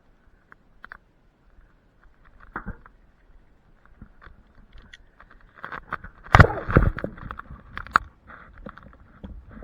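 Leafy branches rustling and twigs cracking, starting quietly with a few scattered clicks and turning into a dense burst of crackling, with the loudest sharp cracks between about six and a half and eight seconds in.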